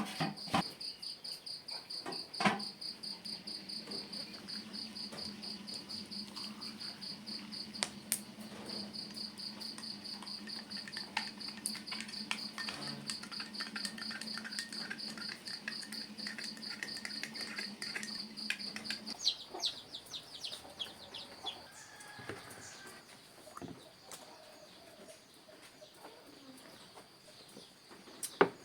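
Crickets chirring in a fast, even pulse. A low steady hum runs beneath them, with a few sharp clicks. The chirring and hum stop about two-thirds of the way through, leaving fainter scattered chirps.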